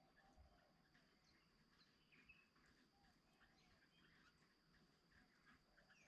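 Faint, scattered chirps and short calls of birds, with a steady thin high-pitched whine underneath.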